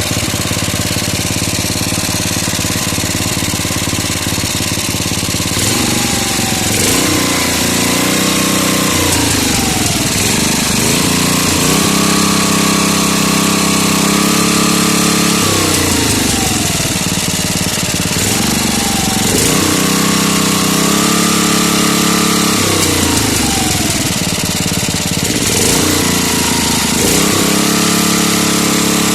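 DM-1K single-cylinder walk-behind tractor engine fitted with a Chinese 188F-type carburettor and centrifugal governor, running steadily at idle and then revving up and back down repeatedly, holding the higher speed for a few seconds each time.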